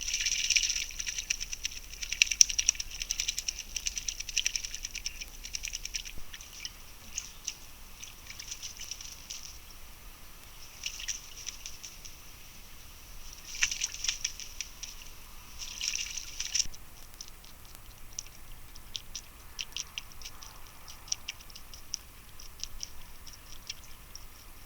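Small woodland birds giving rapid, high-pitched chattering calls in dense spells, then thinning out to scattered single ticks after about 16 seconds.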